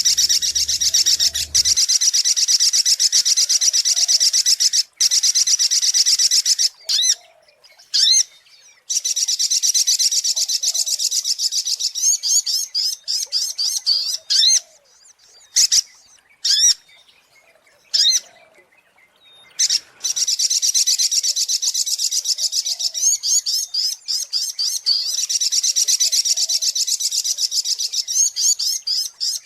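Sogok ontong (a spiderhunter) singing: long, rapid, high-pitched trills of repeated notes in bouts several seconds long, broken by short calls and pauses in the middle.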